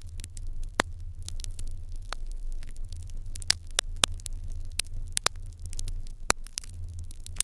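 Fire in an irori hearth crackling: irregular sharp pops and snaps, a few a second, over a steady low hum.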